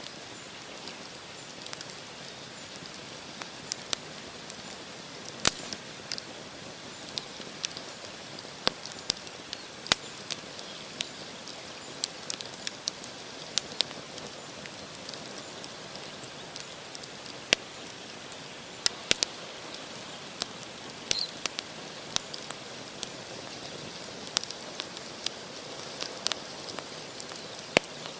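Wood campfire burning: a steady hiss of flames with frequent sharp, irregular crackles and pops from the burning logs.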